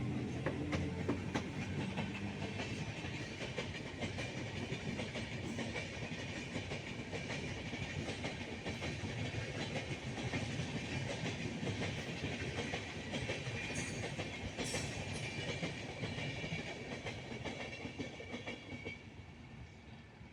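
A train rolling past, its wheels clattering over the rail joints, the sound fading away near the end.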